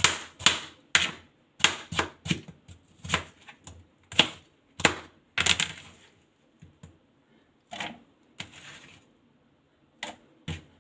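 Sharp knocks and clicks of kitchen utensils against a board and dishes during food preparation, about two a second for the first six seconds, then a few scattered ones.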